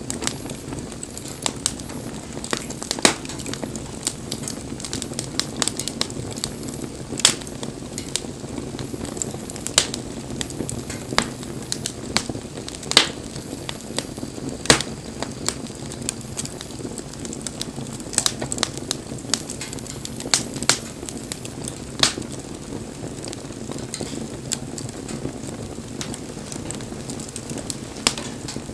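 Wood fire burning: a steady low rush of flame with irregular sharp crackles and pops from the burning wood, a few of them louder snaps.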